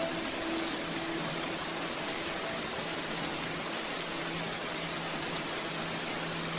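Steady rain falling, an even hiss with no breaks, with faint sustained low musical tones underneath.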